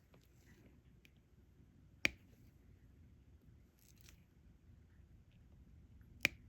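Two sharp clicks about four seconds apart, with faint soft ticking between them: small plastic sounds of diamond painting, a stylus picking up drills and pressing them onto the sticky canvas.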